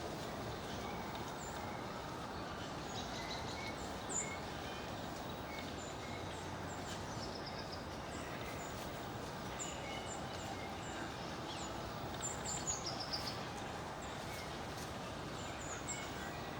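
Small songbirds giving short, high call notes and chips scattered through, over a steady background rumble.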